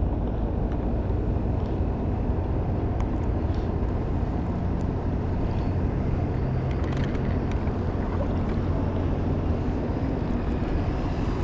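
A skiff's motor running steadily, a low even rumble, with wind on the microphone.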